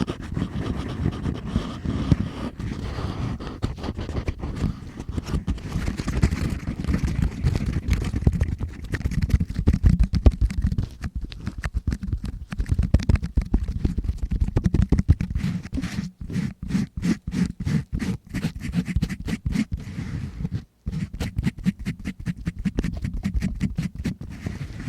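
Close-miked ASMR ear cleaning: a tool scraping and scratching inside the microphone's ear in rapid, dense, crackly strokes, with a few brief pauses past the middle.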